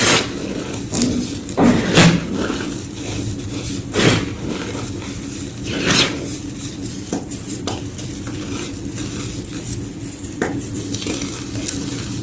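Soft, powdery white gym chalk crunching. Sharp, separate crunches come every second or two, over a steady low hum.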